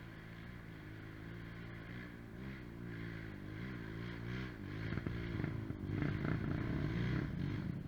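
Off-road trail motorcycle engine revving, its pitch rising and falling with the throttle, growing louder about five seconds in.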